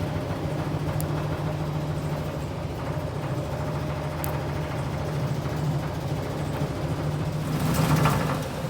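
Electric furnace blower motor and squirrel-cage fan running with a steady low hum, which the owner puts down to an out-of-balance fan cage. A brief louder rush of noise comes near the end.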